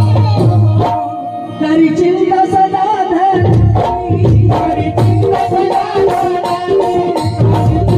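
Indian folk song: a voice singing a gliding melody over tabla. The low drum strokes drop out about a second in and come back about three and a half seconds in.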